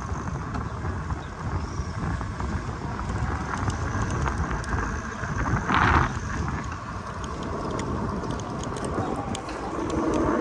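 Roadside traffic noise from passing cars, a steady rumble with a short hiss about six seconds in.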